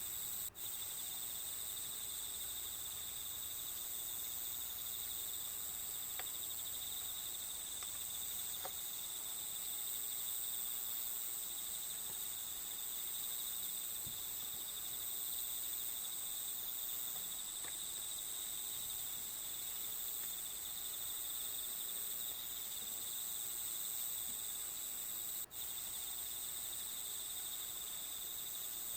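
Steady high-pitched chirring of crickets, a continuous nature-sound backing that cuts out for an instant about half a second in and again near the end.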